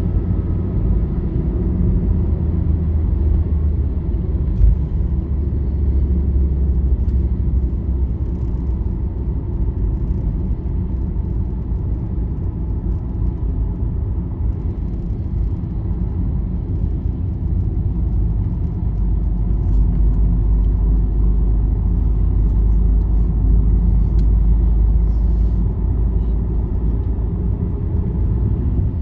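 Steady low rumble of a road vehicle cruising along a highway, engine and road noise blended together, with a few faint clicks.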